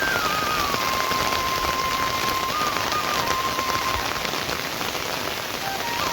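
Steady rain falling and pattering on surfaces, dense with small drop ticks. A thin, high melody line, stepping in pitch, runs faintly over it.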